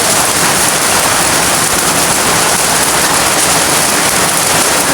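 Heavy rain mixed with hail pouring down, a loud steady hiss.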